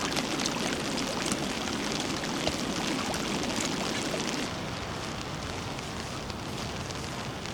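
Heavy rain falling, a dense hiss of many pattering drops, easing slightly about four and a half seconds in.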